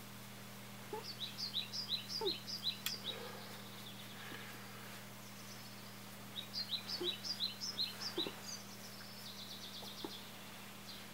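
A small songbird chirping in two quick phrases of repeated high notes, one about a second in and another in the middle, over a steady low electrical hum.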